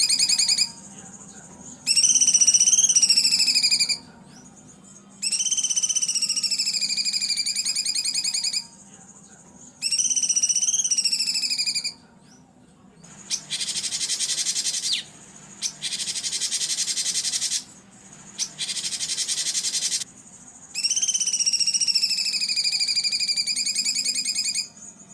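Recorded songbird calls for masteran training: seven or eight loud, harsh, trilled whistled phrases. They come with short gaps between them, and three rougher, buzzier calls fall in the middle. A faint steady hum from the recording lies underneath.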